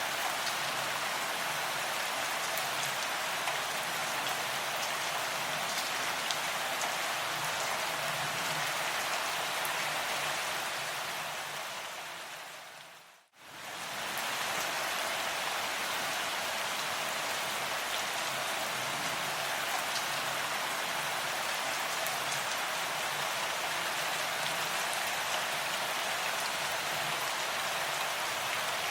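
Steady rain with fine pattering drops. About halfway through it fades out to near silence for a moment and fades back in.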